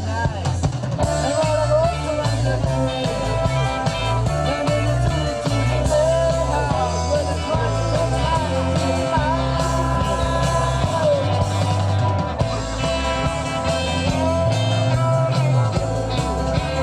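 Live rock band playing, with a bass line stepping between notes under guitar and a lead line that bends in pitch.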